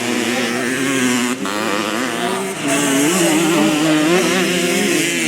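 Several vintage motocross motorcycles running on the track, their engines revving up and down as they change pitch together.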